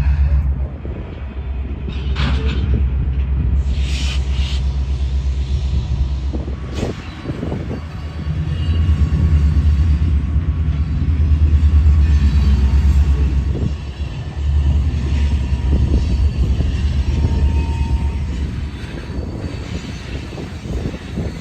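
Diesel locomotive engine running with a steady low rumble that swells and eases several times as it works. A few brief higher-pitched sounds come about two, four and seven seconds in.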